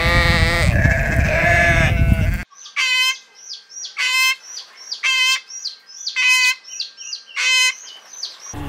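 Sheep bleating for about two and a half seconds over a low rumble, then an abrupt change to an Indian peafowl calling: five short, loud honks about a second apart, with small birds chirping in between.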